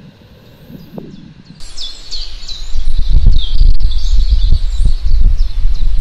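Birds calling with quick, falling chirps over a loud, uneven low rumble that starts abruptly about a second and a half in.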